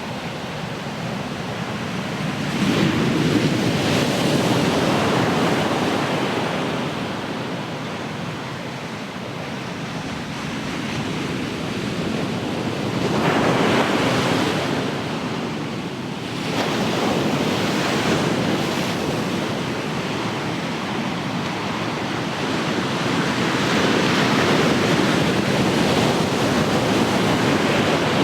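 Ocean waves breaking and washing on the shore, swelling and ebbing in slow surges a few seconds apart, with some wind on the microphone.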